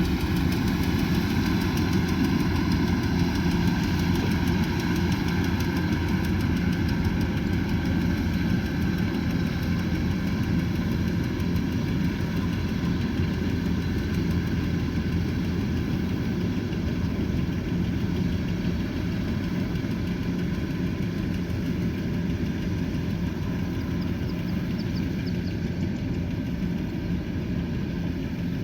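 Kubota combine harvester's diesel engine running steadily with the machine's working drone, slowly growing a little fainter.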